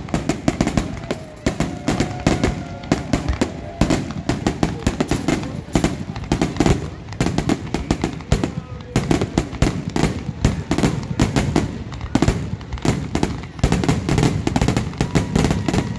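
Aerial fireworks display: a rapid, continuous barrage of shells bursting, several bangs a second overlapping one another.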